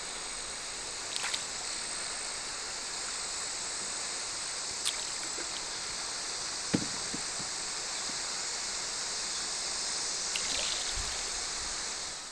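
Steady outdoor river ambience: a continuous high-pitched insect drone over flowing stream water, with a few faint clicks and one sharp knock about seven seconds in.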